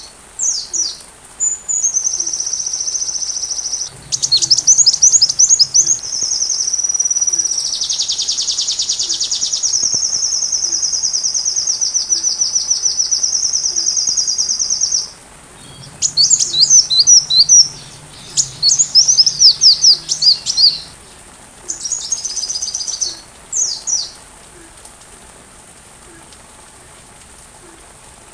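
Sunbird song: high-pitched, fast trills and quick runs of chirping notes, including one long unbroken trill lasting about eight seconds in the middle. The singing stops about 24 seconds in, leaving only a faint steady hiss.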